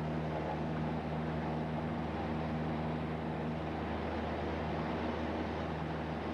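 Cessna 172's piston engine and propeller droning steadily at a constant pitch.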